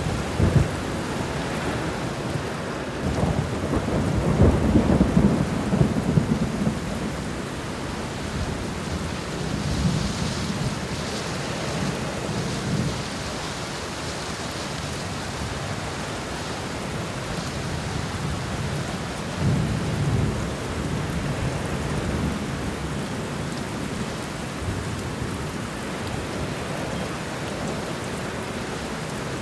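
Thunderstorm: steady heavy rain with rolling thunder rumbling low, swelling loudest a few seconds in and again about two-thirds of the way through.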